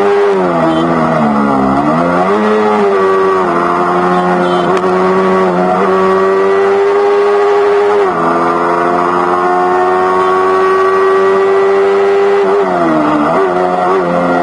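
Yamaha R3's parallel-twin engine running through an Akrapovic GP slip-on exhaust while the bike is ridden. The revs dip and climb back in the first two seconds, then hold nearly steady. About eight seconds in they step down sharply, then rise slowly, and they wobble up and down near the end.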